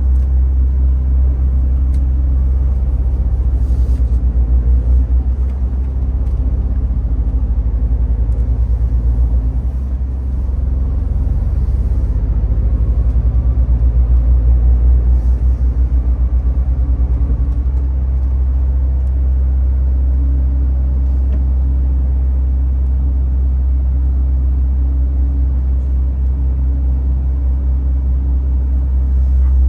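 MAN TGX 18.510 truck's inline six-cylinder diesel engine running at low revs, a steady low hum heard from inside the cab as the truck gets under way.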